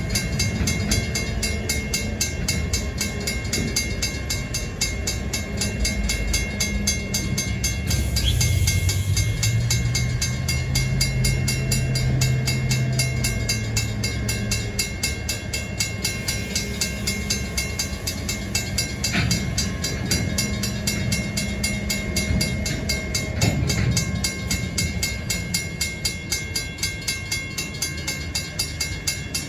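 A Stockton Terminal and Eastern freight train rolling past, its wheels clacking in a steady rhythm over a continuous rumble. A deeper engine hum rises for several seconds midway.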